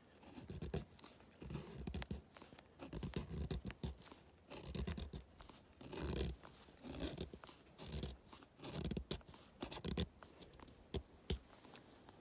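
Rough scraping and crunching strokes, coming irregularly about once a second, with small sharp cracks among them.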